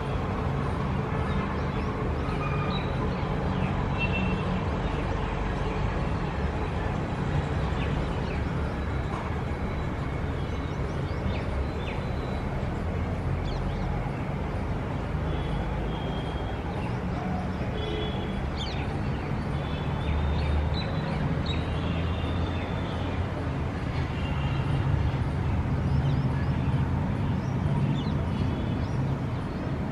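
City ambience: a steady low rumble of traffic with birds chirping on and off above it.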